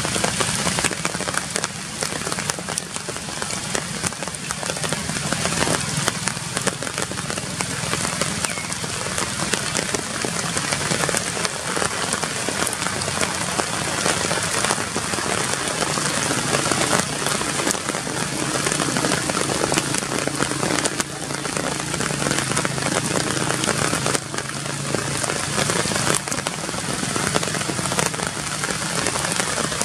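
Steady rain falling on the leaves of a tree canopy, many individual drops ticking over a continuous hiss.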